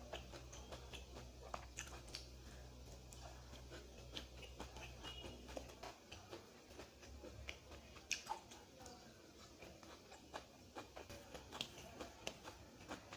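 Faint chewing and small clicking mouth sounds of a person eating rice with dal and fried radish. A low hum underneath stops about halfway through.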